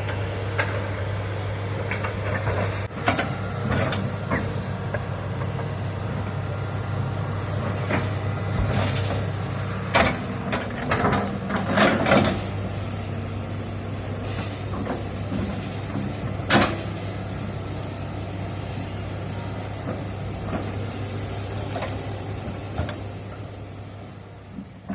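Hitachi excavator's diesel engine running steadily, with sharp cracks and knocks every few seconds, clustered about ten to twelve seconds in and again near seventeen seconds. The sound fades out at the end.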